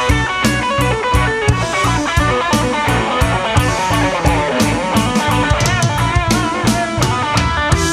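Rock band playing an instrumental passage: an electric guitar lead with bent, wavering notes over a steady drum-kit beat.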